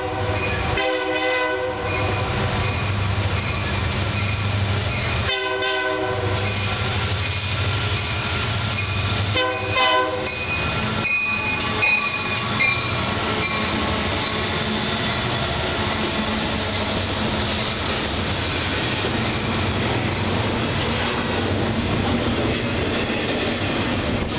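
Union Pacific EMD diesel freight locomotive's multi-chime air horn sounding several blasts a few seconds apart as the train approaches at speed. The locomotives then rush past close by, followed by a steady rumble and wheel clatter from the double-stack cars.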